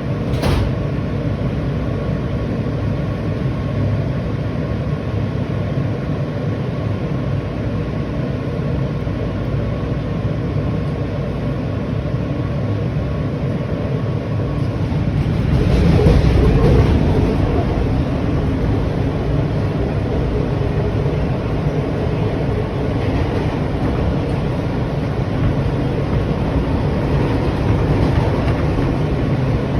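A New York City subway train running, heard from inside the car: a steady rumble with rail and wheel noise. The noise swells for a couple of seconds about halfway through.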